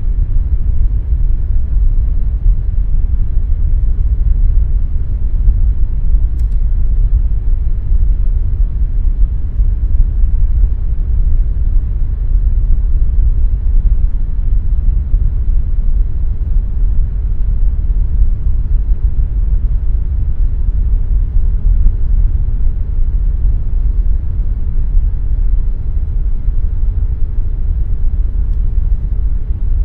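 Air conditioner running steadily: a deep, even rumble with a faint hum above it.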